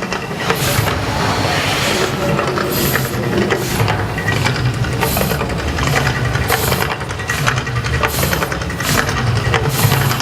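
Mirage volcano eruption show: a loud, continuous deep rumble with sharp hits recurring at uneven spacing, every second or so.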